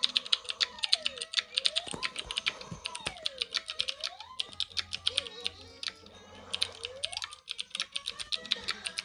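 Slide whistles gliding down and up in pitch several times over a fast, steady clicking patter of about eight clicks a second.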